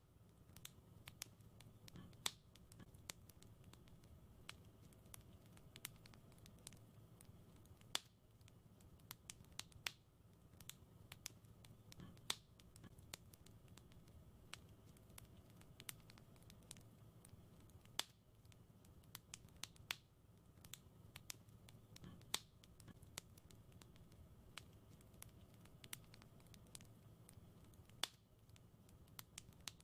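Wood fire crackling in a fireplace: frequent small ticks and snaps with a louder crack every couple of seconds, over a low steady rumble.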